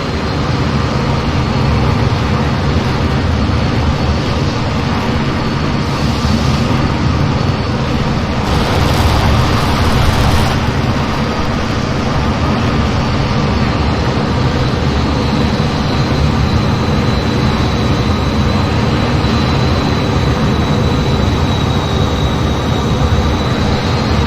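Jet aircraft in flight: a loud, steady run of engine and wind noise with a thin high whine over it. There are brief hissing surges about six seconds in and again around nine to ten seconds.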